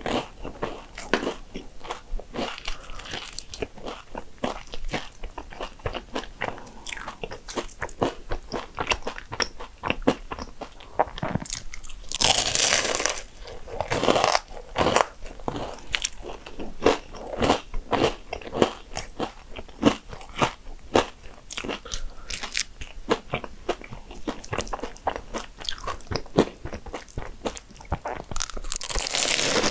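Close-miked chewing of a flaky Mont Blanc danish, a laminated pastry topped with chestnut cream: a steady run of small crisp crackles. There are louder, longer crunches about halfway through and again near the end.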